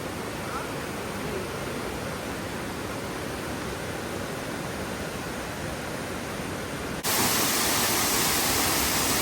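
Steady rushing noise with no tone or rhythm in it, such as wind or rushing water. About seven seconds in it jumps abruptly louder and brighter.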